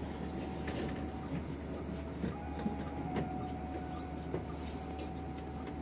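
Steady hum of a passenger train standing at the platform, with a thin constant whine and a few faint clicks.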